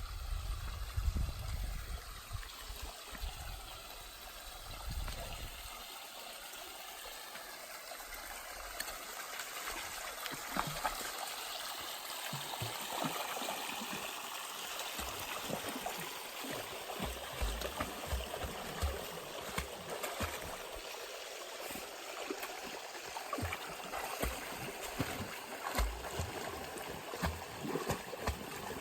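Mountain stream flowing over rocks, a steady rushing and trickling, with frequent short splashes throughout. A low rumble sits under it for the first five seconds or so.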